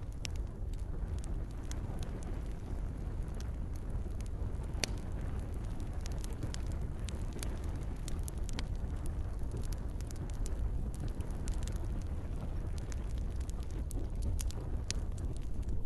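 Campfire crackling, with frequent sharp pops and snaps over a steady low rumble, and gentle rain falling.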